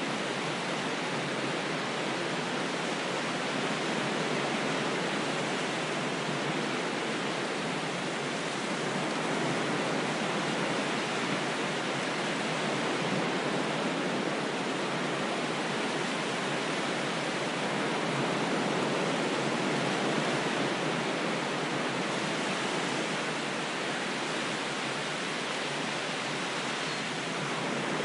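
Ocean waves washing in a steady rush, rising and easing slowly every few seconds.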